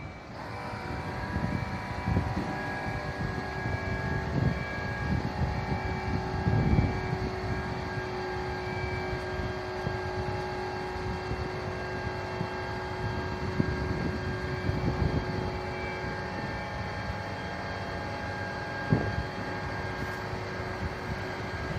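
Fire truck running steadily with a steady whine, its reversing beeper sounding at a regular pace through the first half and then fading out, with gusts of wind on the microphone.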